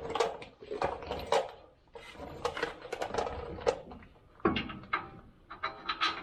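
Metal tools and parts being handled: a run of irregular clinks, knocks and clatter.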